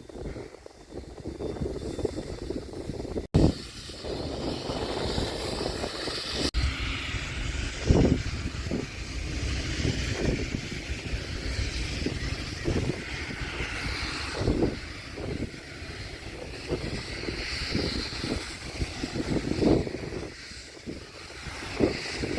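Steam locomotive on the move, with a regular heavy beat about every three-quarters of a second over a steady rushing noise.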